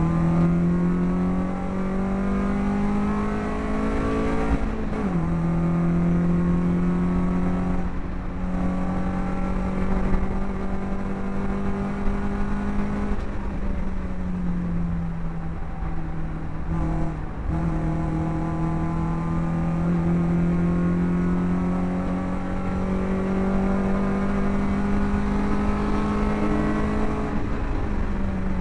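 BMW racing car's engine heard from inside its own cockpit, pulling hard at full throttle. The pitch climbs through each gear and falls sharply at the upshifts, the first about five seconds in.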